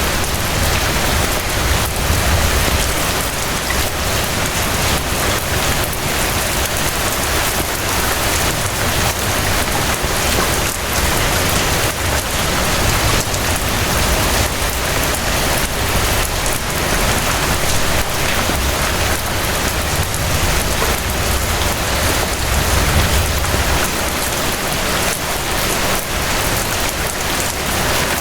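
Steady rain falling, an even, dense hiss, with a low rumble that swells and fades a few times underneath.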